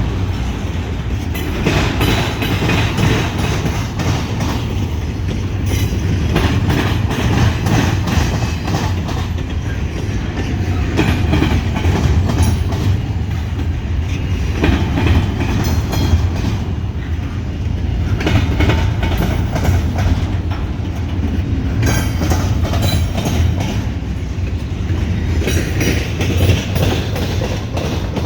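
CSX double-stack container train rolling past, a steady low rumble with its wheels clattering over the track in repeated clusters of clicks.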